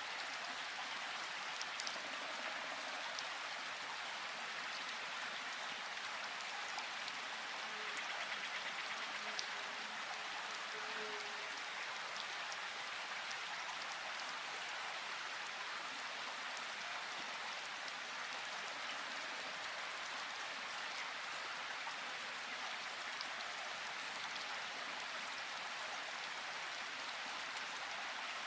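Steady rain falling, a continuous even hiss with a few separate drops ticking now and then.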